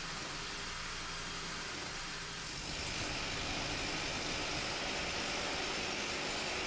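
Electric drill with a side handle, driving a long masonry bit through the base of a thick stone wall, running with a steady grinding noise. About two and a half seconds in it gets louder and harsher, then runs on steadily.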